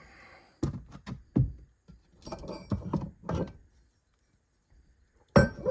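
Metal transmission parts knocking and clinking together as they are handled and test-fitted: a run of light knocks, a pause, then a louder clank near the end.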